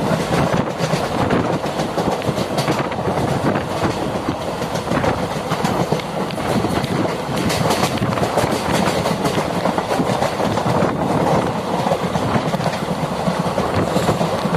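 Passenger train running at speed, heard from an open window of the coach: a steady rolling rumble with the wheels clattering on the rails, clicking now and then and more often about halfway through.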